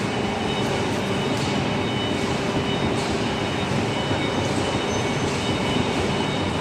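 CNC hydraulic profile bending machine running: a steady mechanical hum from its hydraulic drive, with a constant high whine over it and a few faint ticks.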